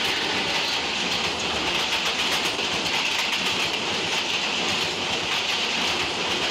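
Passenger train coaches running past at close range: a steady loud rush of wheels on rail, with rapid clicking and clattering over the track.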